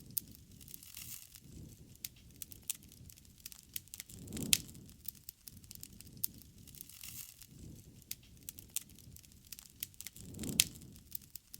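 Wood campfire crackling, with constant small snaps and two loud pops, each with a brief low whoosh of flame, about four seconds in and near the end.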